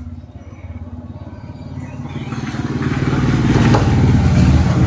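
A motor vehicle engine passing close by: a low pulsing rumble that grows steadily louder from about two seconds in.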